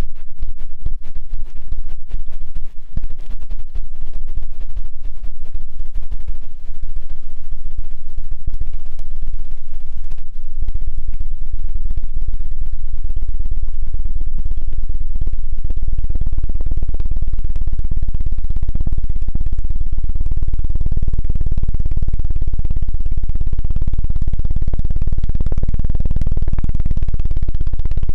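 ASMR 'helicopter' ear-cleaning trigger: a tool worked rapidly against the microphone's ear, giving a loud, fast fluttering thud. It grows heavier and deeper about halfway through.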